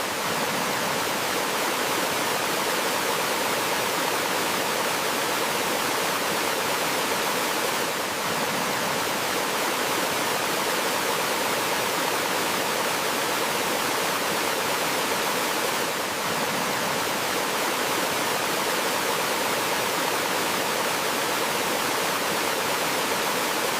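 Gentle waterfall running with a steady, even rush of water.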